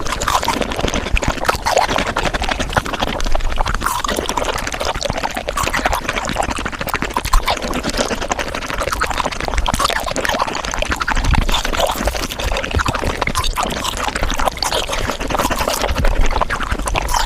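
Chewing and crunching of frozen fruit played back at five times speed, so the bites and wet mouth sounds run together into a dense, unbroken crackle.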